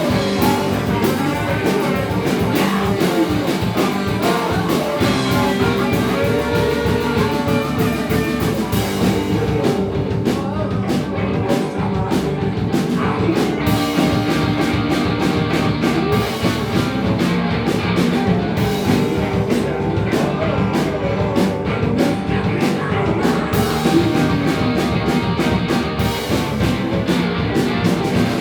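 Live rock band playing: electric guitar, bass and drums with a singer, in a steady full-band groove.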